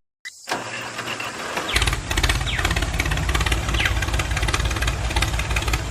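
An engine starting up. From about two seconds in it settles into a steady, low, rapidly pulsing idle.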